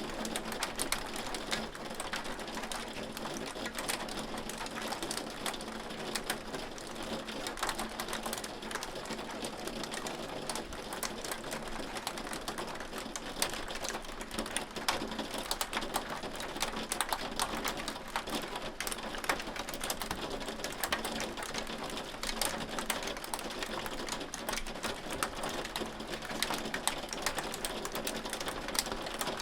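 Hail falling: a steady, dense rattle of countless small ticks as hailstones strike, over a hiss, with no let-up.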